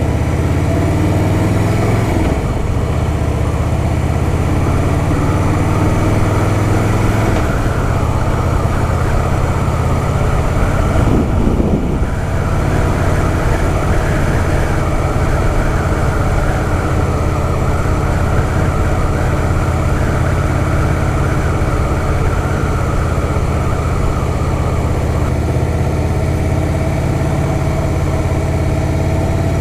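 Harley-Davidson Softail Fat Boy's V-twin engine running steadily under way, with a brief dip and change in engine pitch about twelve seconds in.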